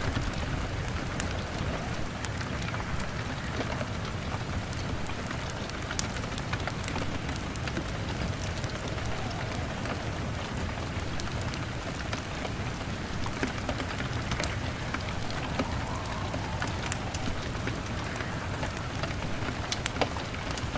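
Steady rain pattering on window glass, mixed with a crackling wood fire giving many small sharp pops scattered throughout.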